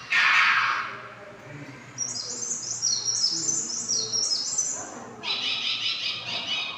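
Recorded bird calls played through a loudspeaker: a short loud call at the start, then a run of quick, high, repeated chirps, then a dense high trill near the end.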